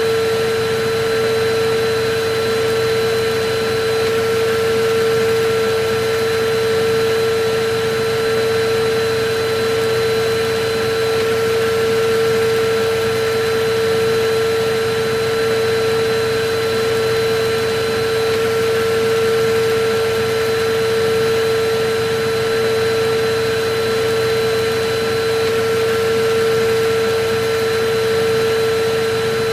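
Electric vacuum cleaner running steadily: an even rushing hiss with a constant motor hum that never changes.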